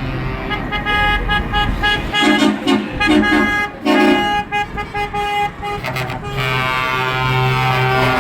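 Vehicle horns tooting in several held notes that change pitch, with a low engine hum underneath; a long horn blast near the end.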